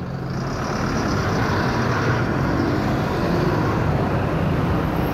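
2012 Suzuki motorcycle's engine running steadily as it rides off through slow city traffic, heard from a camera mounted on the bike with road and wind noise.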